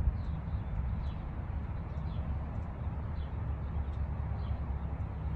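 Outdoor ambience: faint, short bird chirps repeating over a steady low rumble.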